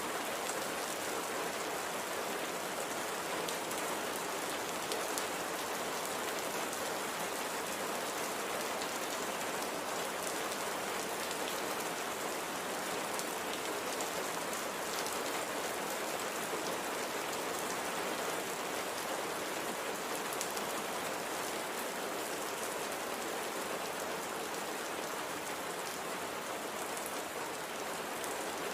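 Steady light rain falling on a surface: an even hiss of rainfall with fine scattered drop ticks.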